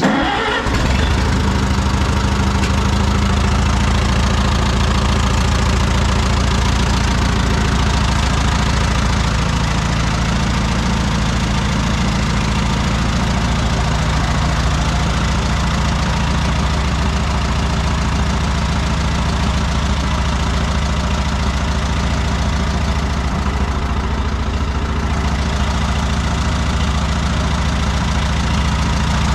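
Oliver 66 Standard tractor's four-cylinder engine starting on choke, its first start of the year: it catches right away, briefly picks up speed, then settles into a steady, even idle.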